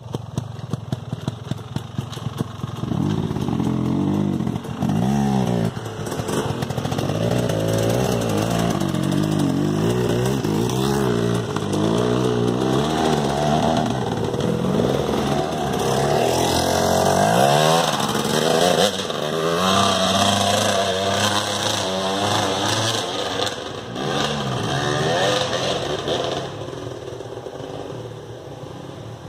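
Two-stroke engine popping unevenly at low revs for the first couple of seconds, then revved up and down again and again. The sound drops away quieter near the end.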